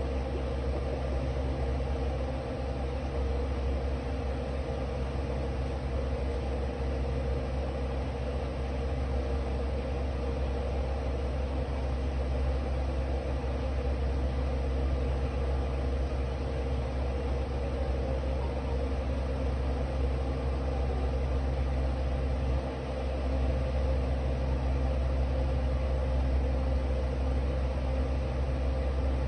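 A steady low machine hum that runs on unchanged, with a brief dip about three-quarters of the way through.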